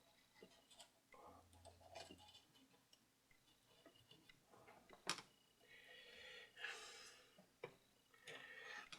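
Faint handling noises of small metal record-changer parts: scattered light clicks and rustling, with a sharper click about five seconds in and another near the end.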